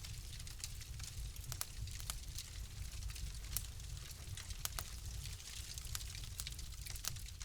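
Wood fire crackling in a fireplace: irregular sharp pops and snaps, several a second, over a steady hiss and a low rumble.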